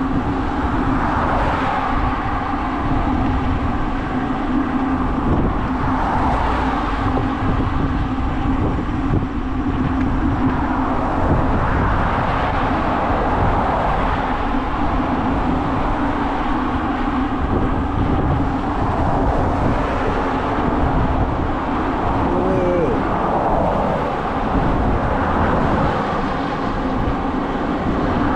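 Wind buffeting the microphone and tyre and road noise of a bicycle riding downhill at speed, with a steady hum underneath.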